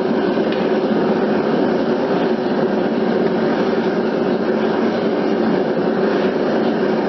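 Burner of a metal-melting furnace running with a steady roar while aluminum melts in it.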